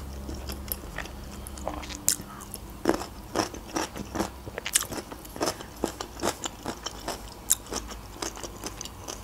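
Close-miked chewing of pan-fried pelmeni dumplings: irregular crunchy bites and mouth clicks, several a second.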